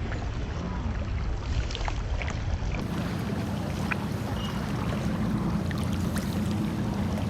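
Water splashing and dripping around sea kayaks on open water, with scattered small clicks. A steady low drone comes in about three seconds in.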